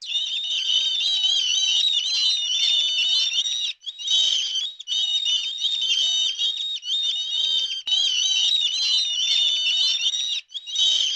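A dense chorus of high-pitched bird chirps and twittering, many calls overlapping, broken by three short gaps.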